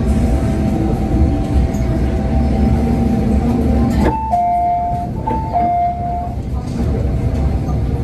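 MTR M-Train electric multiple unit running, heard inside the car: a steady low rumble with a whine, which changes abruptly about halfway, when a two-note tone steps between a higher and a lower pitch for about two seconds.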